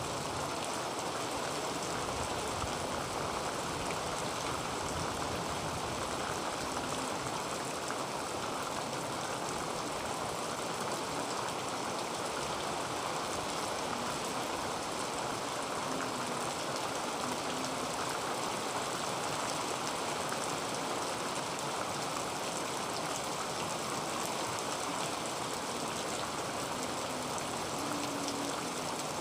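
Heavy rain falling on a tin roof, a steady, even rush of drops that neither swells nor breaks.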